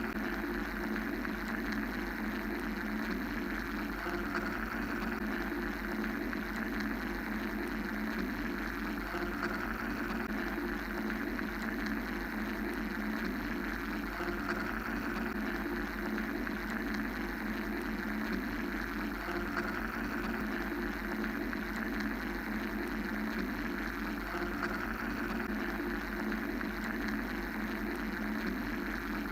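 Steady mechanical drone, a continuous whirring noise with a low hum and a higher hiss that slowly swell and ease every several seconds.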